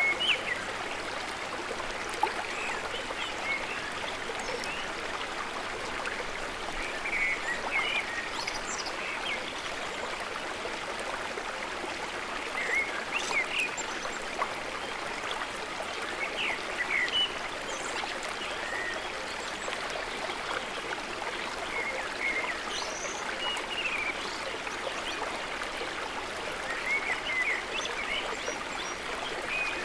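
Small birds chirping in short, scattered calls over a steady rush of flowing water.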